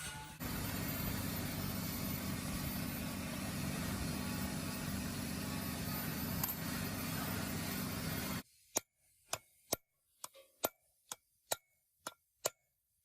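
A power tool running steadily for about eight seconds, then cutting off suddenly. A string of sharp taps follows, roughly two a second, some with a brief metallic ring.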